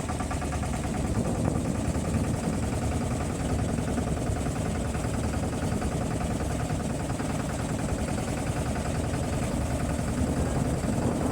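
Motorboat's engine running steadily at cruising speed, a low, even drone.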